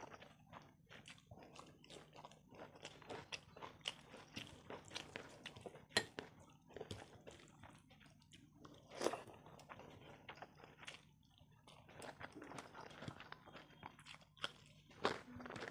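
Close-miked chewing and mouth sounds of someone eating rice and curry by hand, with many small clicks and smacks; the two loudest smacks come about six and nine seconds in.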